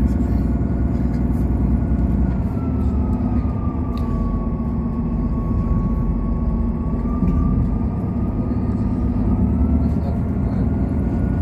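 A passenger train running, heard from inside the carriage: a steady rumble from the running gear, with a whine that sinks slightly in pitch about two seconds in and rises back near the end.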